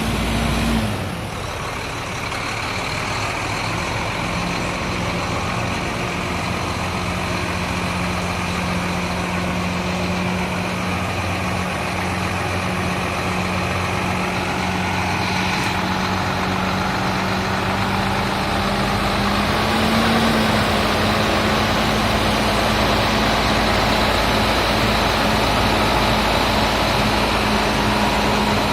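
Old truck's engine running steadily at idle after being jump-started with an extra battery from long standing; the engine note steps up slightly about twenty seconds in.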